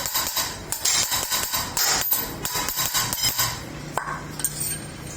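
Hand tools clinking and tapping on metal, a quick run of sharp knocks for the first three and a half seconds, then only a few more.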